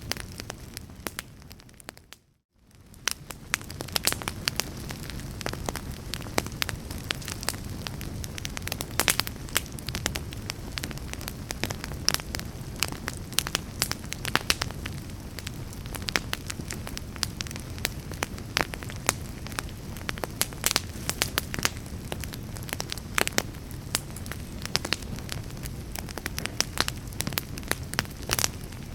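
Fire in a fireplace crackling, with frequent sharp pops and snaps over a steady low rumble of flames. About two seconds in, the sound fades almost to nothing for a moment, then swells back.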